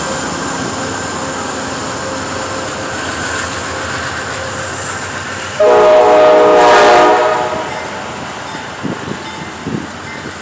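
GE P40DC diesel-electric locomotive and train running, with one horn blast of about two seconds just past the middle.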